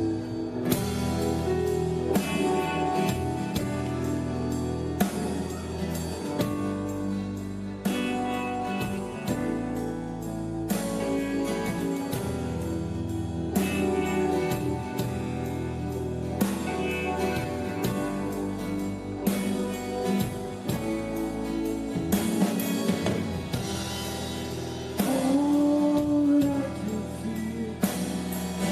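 Rock band playing an instrumental passage live: drum kit keeping a steady beat under sustained electric guitar and bass. Near the end a single held note bends in pitch.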